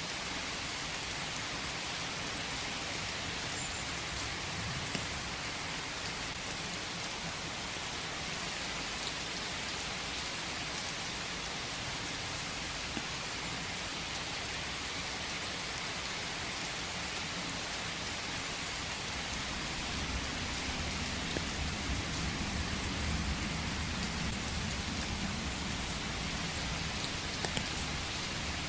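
Steady rain in a forest, a dense even hiss of drops falling on leaves and ground. About two-thirds of the way through a low rumble swells up under the rain and stays to the end.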